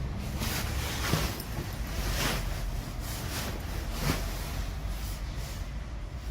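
Tram running: a steady low rumble with repeated brief hissing swells over it.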